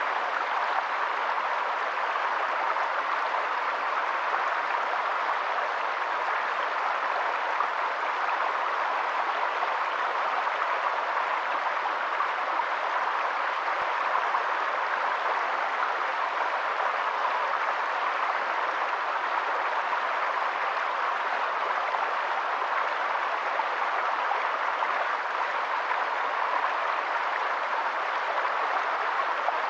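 Running water making a steady, even rushing hiss without a break.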